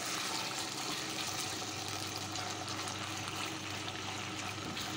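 Boneless chicken pieces sizzling steadily in hot oil in a wok while being stirred with a silicone spatula, in the first stage of frying, cooking until the meat turns white.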